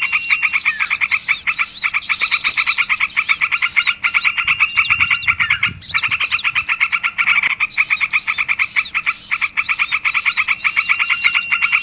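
Bird-lure recording of small songbirds calling together: a fast, chattering run of repeated notes with high swooping chirps layered over it, pausing briefly about halfway through.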